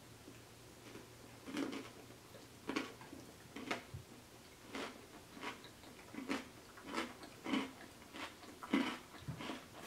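Close-miked chewing of a mouthful of creamy bowtie Caesar pasta salad, with short chewing sounds repeating about once a second.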